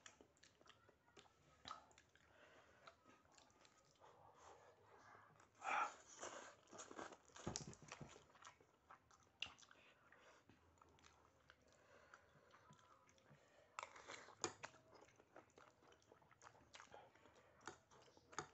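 Faint close-up eating sounds: chewing of instant noodles and rice, with scattered small clicks of fork and spoon against plastic dishes and a few louder bursts about six seconds in and again near fourteen seconds.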